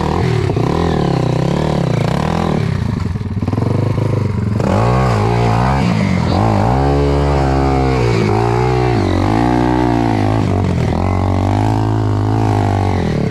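Enduro motorcycle engine revving up and down again and again, the revs rising and falling every second or so under the throttle, with a brief lull about three to four seconds in.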